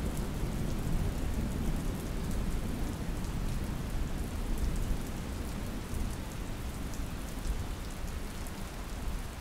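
Steady rain pattering, with fine scattered drop ticks.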